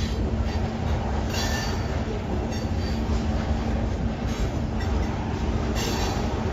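Tank cars of a freight train rolling past: a steady rumble of steel wheels on rail, with brief high wheel squeals about a second and a half in, at about four and a half seconds, and near six seconds.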